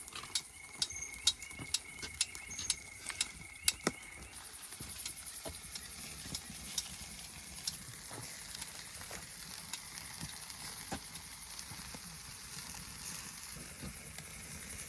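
A rapid series of sharp clicks and taps for the first few seconds, then a steady, high, pulsing insect chirring with an occasional click.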